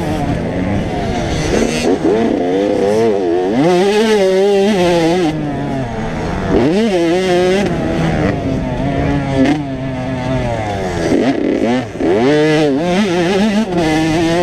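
85cc two-stroke motocross bike engines revving up and falling back over and over, the pitch climbing and dropping every couple of seconds as the bikes accelerate, shift and back off around the track.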